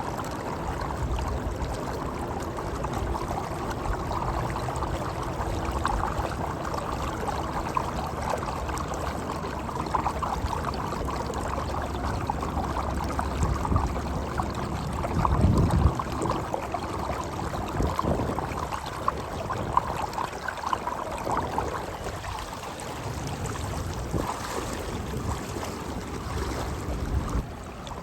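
Shallow river water running steadily, with a low rumble underneath that swells briefly about halfway through.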